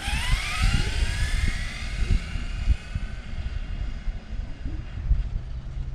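Radio-controlled drag car accelerating away: a motor whine that climbs quickly in pitch over the first couple of seconds, then levels off and fades. Wind rumbles on the microphone throughout.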